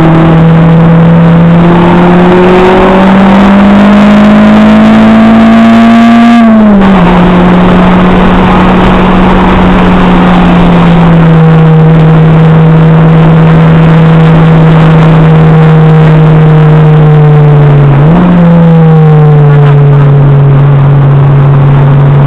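Acura RSX Type-S K20A2 four-cylinder engine heard loud inside the cabin under hard track driving. The pitch climbs steadily, then drops sharply at an upshift about six and a half seconds in; it holds and sags slowly, then jumps back up near the end as at a downshift.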